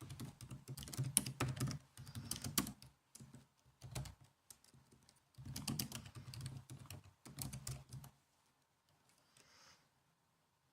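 Typing on a laptop keyboard: bursts of quick key clicks, pausing briefly between runs and stopping about eight seconds in.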